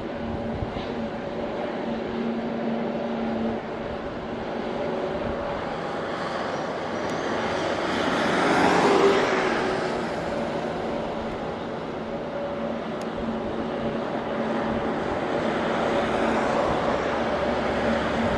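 Airliner engines passing on a landing: a steady engine hum with a wide rush that builds to its loudest about halfway through, then eases off.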